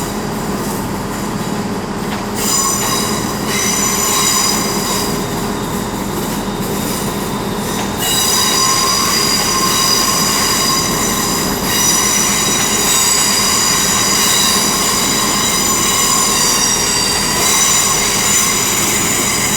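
Train wheels squealing against the rails as a train moves through the station: several steady high-pitched squeals that shift in pitch a few times, over the train's steady running noise.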